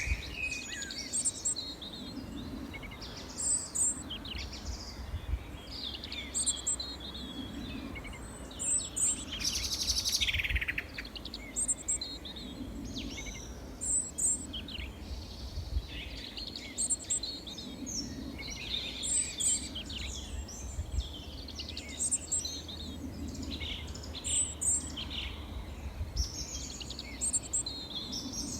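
Small songbirds chirping and singing, several at once, with bright short calls recurring every couple of seconds. A dense buzzy trill stands out about ten seconds in.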